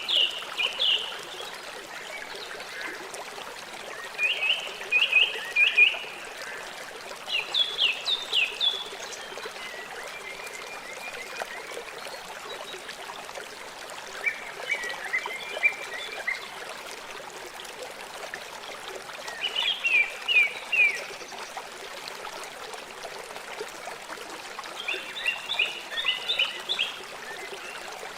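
River water flowing steadily over stones. Over it, a small songbird sings short phrases of quick, high chirps, repeated every three to five seconds, each phrase about a second or two long.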